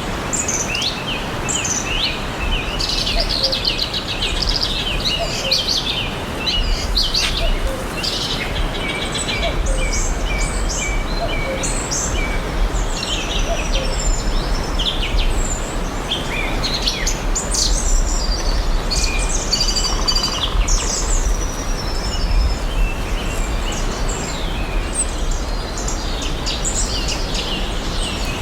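Several songbirds chirping and singing at once, short overlapping calls and trills, over a steady background hiss and low rumble of outdoor ambience.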